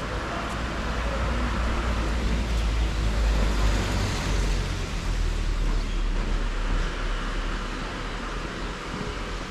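Road traffic: a steady low rumble of vehicles, swelling as one passes about halfway through and then easing off.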